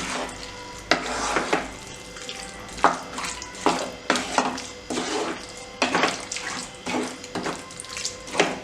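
Chicken being stirred into a wet onion-tomato masala in a pan: a spoon scraping and sloshing through the mixture in irregular strokes.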